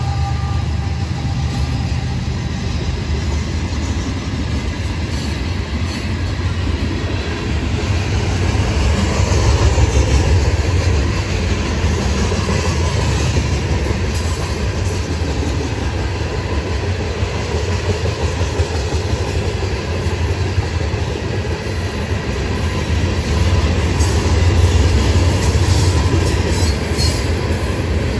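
Freight train hopper and covered hopper cars rolling past, a steady low rumble and clatter of steel wheels on the rails, swelling a little twice.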